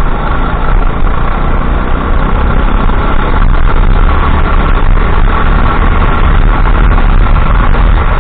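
Go-kart engine running loud and steady, close to the microphone.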